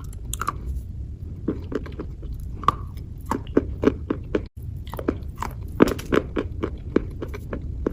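Close-miked ASMR wet crunching: a quick, irregular run of crisp crunches and crackles, several a second, over a low rumble. The sound breaks off briefly about halfway through, then carries on.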